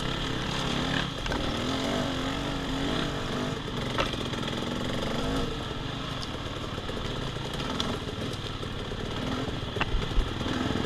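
Dirt bike engine running on a woods trail ride, its pitch rising and falling with the throttle for the first few seconds, then lower and steadier from about halfway. A few sharp knocks come through, one about four seconds in and a couple near the end.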